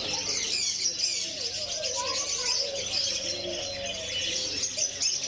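A group of budgerigars chattering: many rapid, overlapping chirps and warbles.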